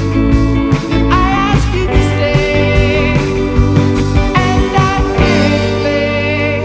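Rock band music with guitars, drums and a sung melody; the beat drops out near the end, leaving held guitar notes.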